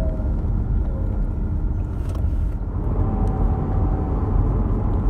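Mercedes-Benz W210 driving, with a steady low hum and a faint whistle that comes and goes, fading just after the start and returning about three seconds in. It is the unexplained hum and whistle the owners cannot trace.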